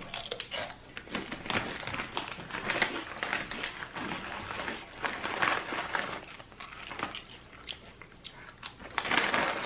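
Crunchy ghost pepper chips being bitten and chewed close to the microphone, a run of irregular crunches, with crinkling of the chip bag.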